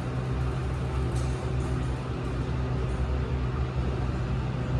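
Elevator car travelling between floors: a steady low hum under a faint even hiss.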